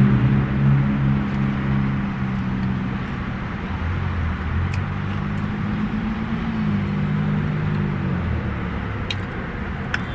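Car engine running, heard from inside the cabin: a steady low hum that shifts in pitch a couple of times, with a few faint clicks.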